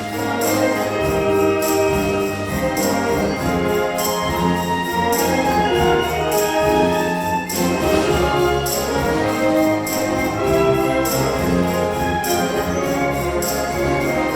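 School brass band playing a concert-band arrangement of a pop song: held brass chords and melody over a steady percussion beat.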